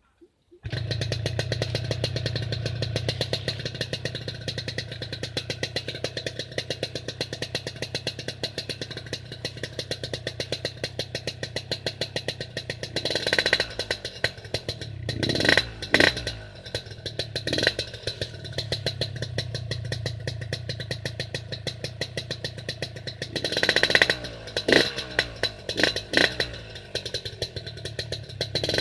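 Yamaha RX-King two-stroke single-cylinder motorcycle engine running through its exhaust, idling with a fast, even popping beat. The throttle is blipped in short revs around halfway and again near the end.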